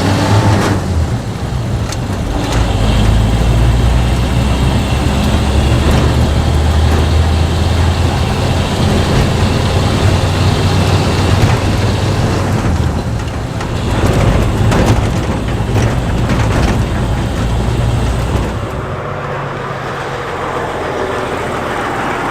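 Lorry's diesel engine running with a deep, steady rumble, dropping away near the end.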